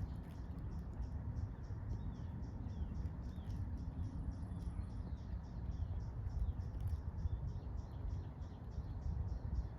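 Siberian chipmunk making a steady series of short, high clicks, about three or four a second, over a low rumble of wind or handling noise.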